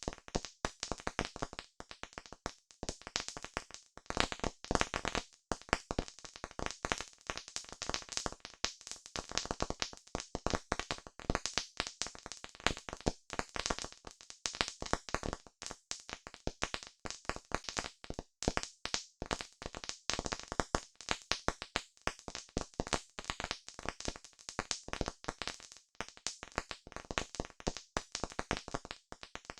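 Wood campfire crackling: a dense, unbroken run of sharp pops and snaps.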